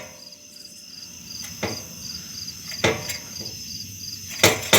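Rusted-out exhaust piping under a 2001 Nissan Maxima knocking and clanking a few times as it is shaken by hand, loud near the end; the rotted pipe is hanging loose, barely attached. Crickets trill steadily in the background.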